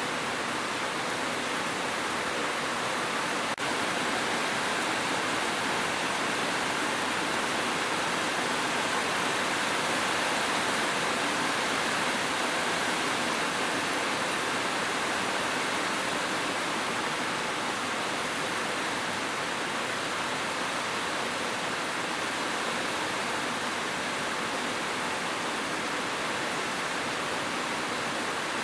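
Steady rain: an even, dense rushing hiss with no separate drops standing out, with a momentary dip about three and a half seconds in.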